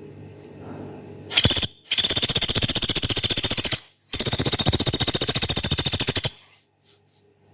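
Pelatuk beras, a small woodpecker, calling: a short burst, then two long, rapid, harsh high trills of about two seconds each.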